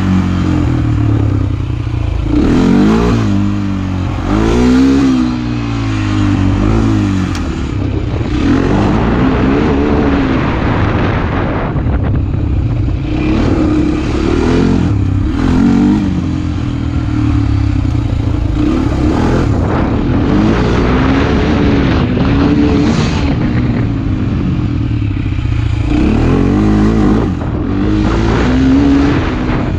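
Motorcycle engine being ridden, its pitch rising and falling again and again as the throttle is opened and closed through the gears.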